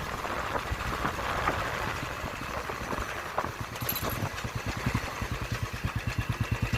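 Motorcycle engine running at low revs with an even low beat of about eight pulses a second, which grows more distinct about halfway through.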